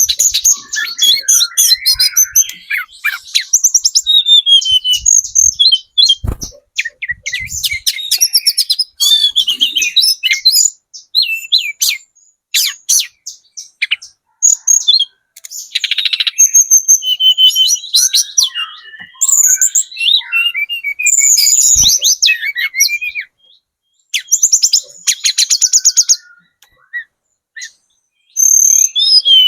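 Tledekan gunung trotol singing vigorously: fast, high-pitched phrases of chirps, rapid trills and quick runs of notes, repeated in bursts with short pauses. Two dull knocks come through, one about six seconds in and one about twenty-two seconds in.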